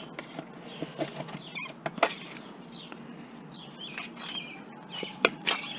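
Small irregular clicks, taps and scrapes of plastic and metal parts being handled and pried at while an electronic device is taken apart.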